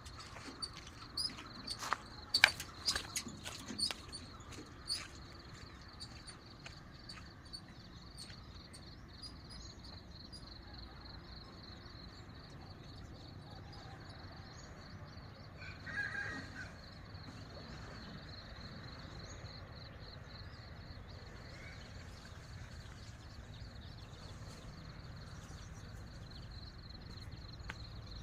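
Outdoor rural ambience with a steady, high-pitched insect chirring, several sharp clicks and knocks in the first few seconds, and a short call about halfway through.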